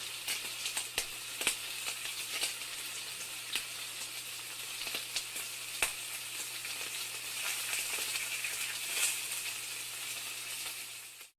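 Food sizzling in a hot frying pan: a steady hiss with scattered sharp pops and crackles throughout, over a faint low hum. It starts and cuts off abruptly.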